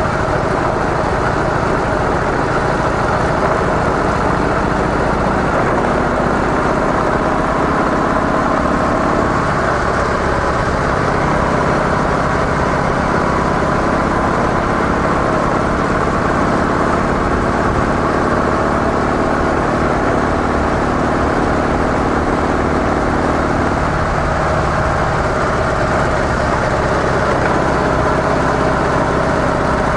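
Harley-Davidson CVO Softail Deluxe's air-cooled V-twin on stock mufflers, running steadily with an even note.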